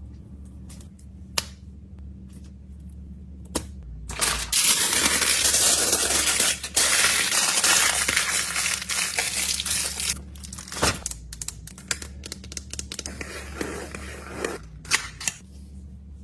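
Plastic packaging being handled: a few sharp clicks and taps, then from about four seconds in a loud continuous crinkling and tearing for about six seconds, followed by scattered crackles and clicks.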